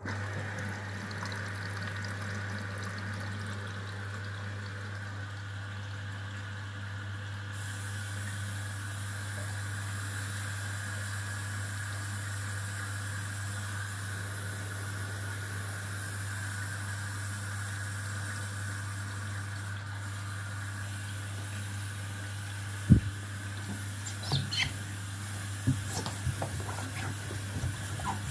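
Whirlpool FSCR90425 front-loading washing machine taking in water at the start of its wash cycle: a steady hiss of water running in over a constant low hum, the hiss growing louder about a quarter of the way in. Near the end there is one sharp knock, followed by a few lighter clicks.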